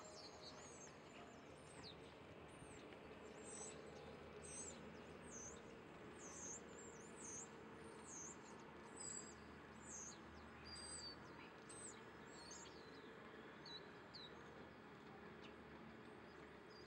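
Faint bird chirping: a long run of short, high, gliding notes repeated about once or twice a second, thinning out near the end.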